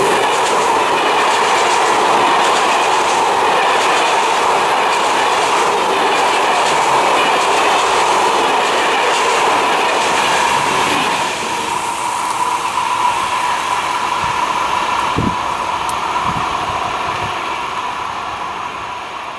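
A train passing close by, its wheels clattering over the rails with a steady ringing tone, loud for about ten seconds and then fading away as it leaves.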